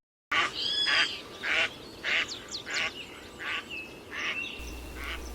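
Ducks quacking repeatedly, about one call a second, starting a moment in.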